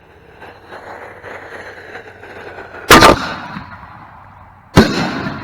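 Consumer firework mortar shell being set off. Its fuse hisses and crackles, then the lift charge fires the shell from its tube with a loud boom about three seconds in. The shell bursts overhead with a second sharp bang just under two seconds later.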